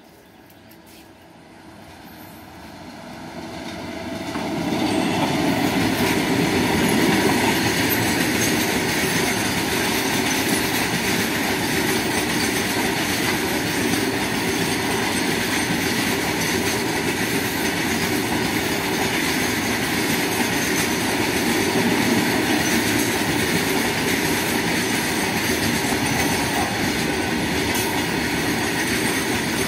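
Freight train approaching and passing at speed: the noise builds over the first five seconds as it nears the crossing, then holds as a steady, loud rolling of steel wheels on rail while a long string of loaded open-top wagons goes by.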